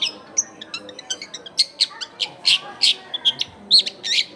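Long-tailed shrike (cendet) singing a fast series of short, sharp, high-pitched notes, about three a second, with a quicker run of small ticking notes early on.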